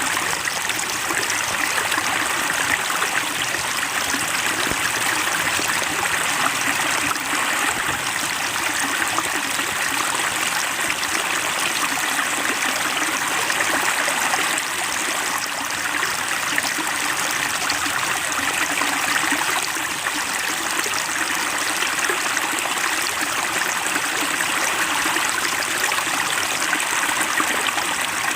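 Water trickling steadily into a small fish pond, a continuous even splashing.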